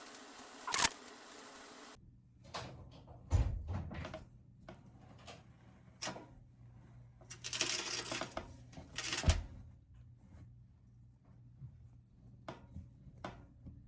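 Kitchen handling sounds while bread dough is shaped into rolls: scattered clicks and knocks, two dull thumps, and a short rustling stretch in the middle.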